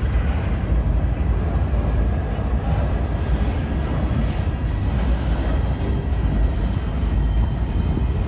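Empty centerbeam flatcars of a Norfolk Southern freight train rolling past at close range: a steady, low rumble of steel wheels on the rails.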